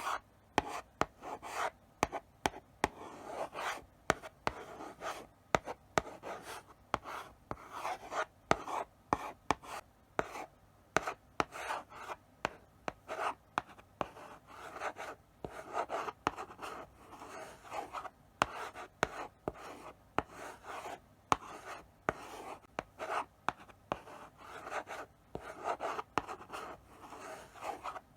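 Chalk writing slowly on a blackboard: short scratchy strokes one after another, with sharp taps as the chalk meets the board.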